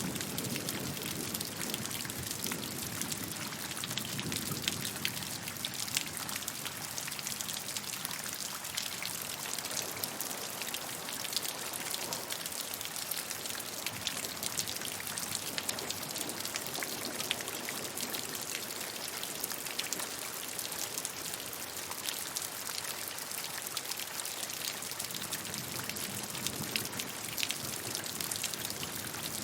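Steady rainfall with many close drops pattering, an even hiss with fine drip ticks throughout.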